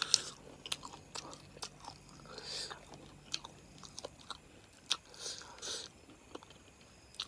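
Wet chewing and lip-smacking of rice and chicken curry eaten by hand, with frequent sharp mouth clicks and a few short airy hisses.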